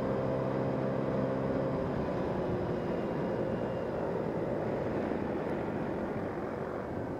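Vehicle on the move: a steady engine hum for about the first two seconds, then mostly road and wind noise that slowly fades.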